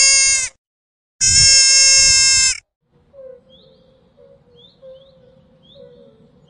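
Two loud, long calls from a hoofed animal, each holding one steady pitch, the second nearly twice as long as the first. After them comes faint birdsong, a short high chirp about once a second.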